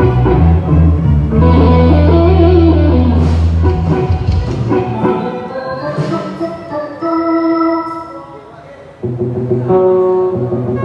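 Live band playing through a PA system, with loud bass notes and held instrument tones. The bass drops out about halfway and the music thins and quietens, then the full band comes back in near the end.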